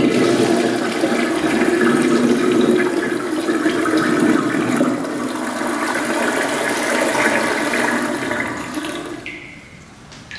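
Toilet flushing: a loud rush of water that runs for about nine seconds and drains away near the end.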